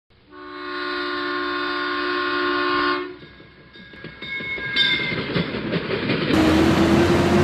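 Train horn sounding a steady multi-note chord for about three seconds, then the rumble and clatter of a train. About six seconds in, the sound cuts abruptly to a louder, fuller recording of a train with a single steady horn note.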